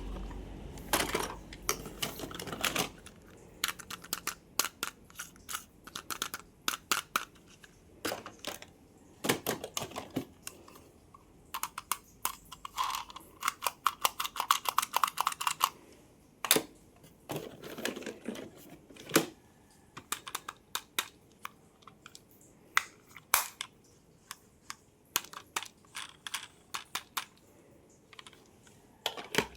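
Plastic toy cars and their packaging being handled: irregular sharp clicks and taps, with short rustles and a rapid rattling run in the middle.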